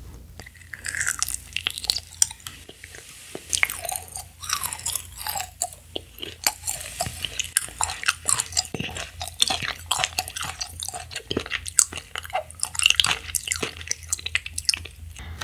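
Close-miked chewing of a chewy red gummy jelly candy: rapid, irregular clicking and smacking mouth sounds.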